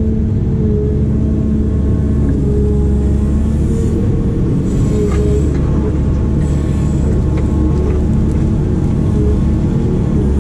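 Heavy digging machine's diesel engine running steadily, a loud even hum holding one pitch throughout.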